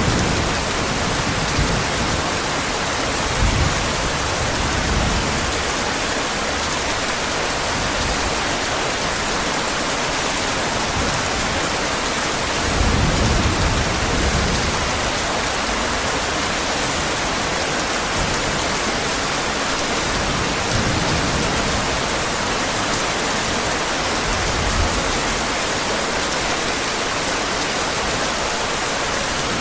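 Heavy rain falling steadily, an even hiss, with a few brief low rumbles of thunder, the clearest about thirteen seconds in.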